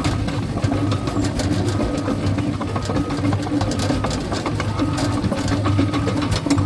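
Cat bulldozer's diesel engine running steadily under a dense, irregular clicking and clatter of its steel tracks.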